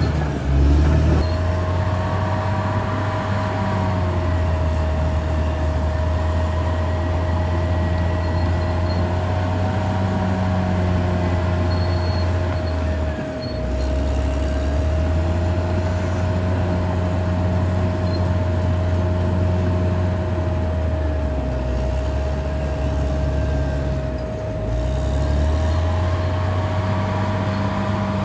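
Caterpillar D6R XL bulldozer's diesel engine working steadily under load. Its note rises and falls and dips briefly twice, with a steady whine running above it.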